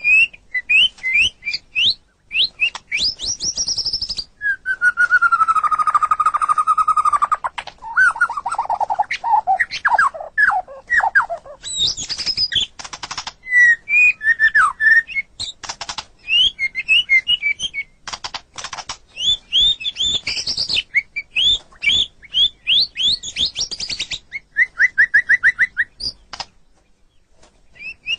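White-rumped shama (murai batu) singing a long, varied song: quick runs of whistled notes, pitch glides, a held whistle that slides down, and dense rattling note series, broken by short pauses.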